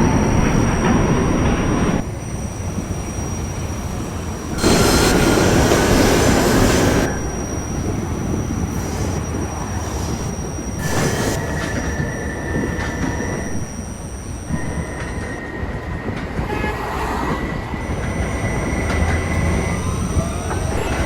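R68A subway train running between stations with a steady rumble and rattle. There are louder rushes at the start and about five seconds in, and a thin wheel squeal sets in during the second half.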